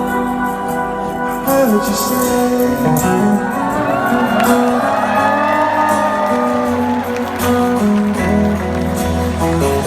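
Rock band playing live, with held organ and guitar notes, and the crowd cheering and whooping over the music.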